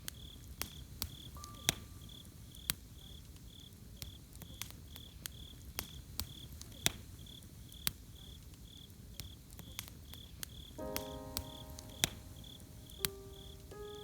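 Campfire crackling with sharp irregular pops and a low steady rumble, over a cricket chirping steadily, about two to three chirps a second. A few soft sustained music notes, including a chord, come in about eleven seconds in.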